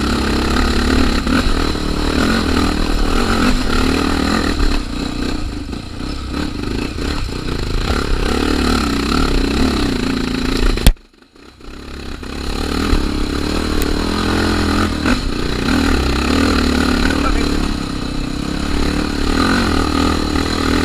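Honda Tornado trail motorcycle's single-cylinder engine running over rough trail, its pitch rising and falling with the throttle. About halfway through there is a sharp spike, then the sound cuts out for about a second before the engine returns.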